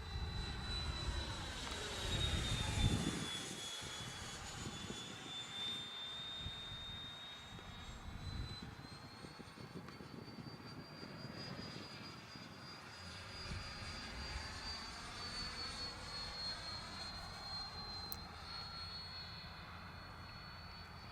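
Electric ducted-fan RC jet (80mm EDF Freewing T-33 Shooting Star) in flight: a steady high-pitched fan whine that sags and rises in pitch as it passes, with rushing air. There is gusty wind rumble on the microphone, loudest about two to three seconds in.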